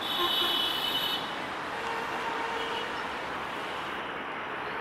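Passenger train running along the track, a steady rumble and rattle of wheels and coaches, with a brief high squeal in about the first second.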